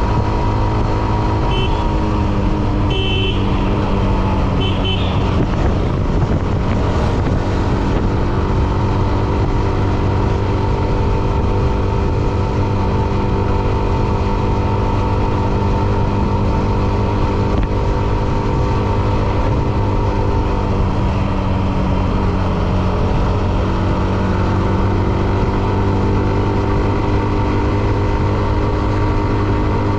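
Hero Xtreme 125R's single-cylinder engine running at a steady road speed while riding. A few short high beeps sound between about two and five seconds in.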